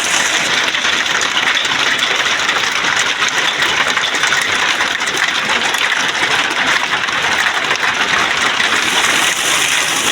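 Steady, dense hiss of rushing water.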